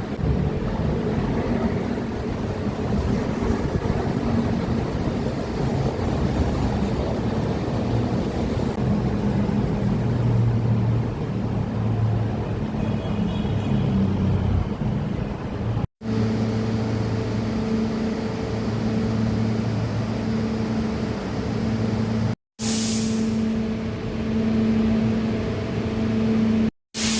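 Light rail train running: a steady rumble with a low, even hum. The sound drops out briefly three times in the second half.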